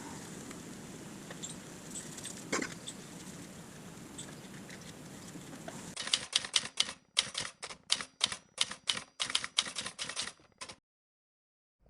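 Faint background noise with a few small clicks, then a rapid, irregular run of sharp typewriter-like clicks, several a second, for about five seconds, which stops abruptly into dead silence. The clean silence between the clicks suggests a typing sound effect added in editing.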